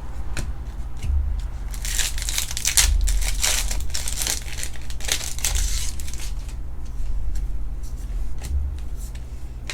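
Baseball trading cards and their foil pack wrapper being handled: crinkling and sliding in uneven bursts, heaviest in the middle, with a few light clicks, over a steady low electrical hum.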